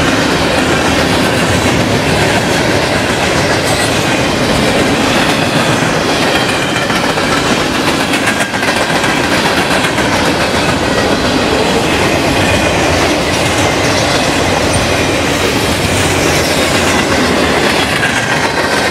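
Freight train cars (covered hoppers, a gondola and boxcars) rolling past close by: a steady rumble of steel wheels on rail with clickety-clack over the rail joints and faint high squealing tones from the wheels.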